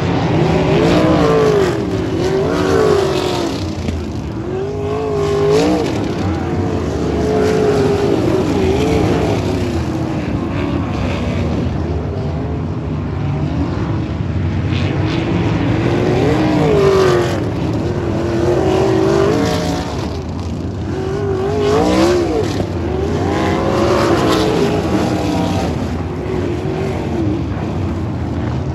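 Sprint cars racing on a dirt oval: several V8 engines running together, their pitch rising and falling over and over as cars throttle through the turns and pass by.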